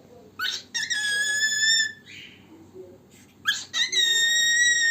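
Male cockatiel whistling: two calls, each a quick rising chirp that settles into a steady held whistle about a second long.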